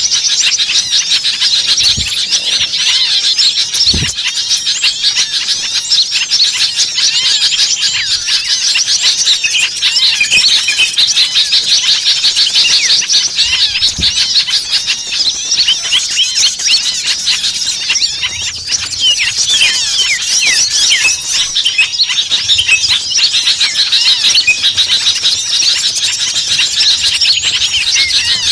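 A dense, noisy chorus of many small songbirds chirping and calling at once, with rapid overlapping high-pitched chirps and squeals. It is an agitated small-bird racket of the kind played as a bird-lure call.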